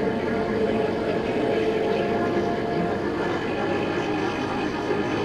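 Small 50cc scooter engine running at a steady pitch while riding, mixed with wind and traffic noise.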